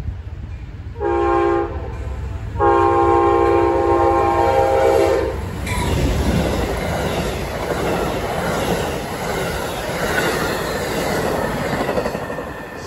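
Amtrak GE P42DC locomotive's horn giving a short blast, then a long blast of about three seconds: the end of its grade-crossing signal. The passenger train then rushes past close by, its wheels clattering over the rail joints.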